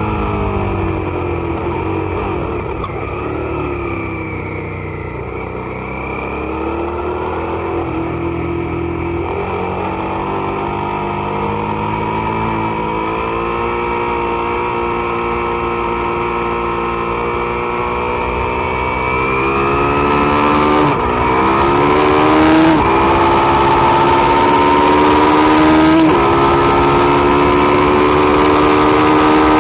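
Suzuki SV650's V-twin engine on track: revs fall off for the first few seconds as the bike slows, then climb steadily. In the last third it accelerates hard through three quick upshifts, each a sudden drop in pitch, with wind rushing louder over the bike.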